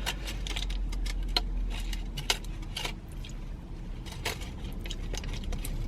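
Scattered light clicks and clinks of small hard objects being handled, irregularly spaced, over a steady low hum.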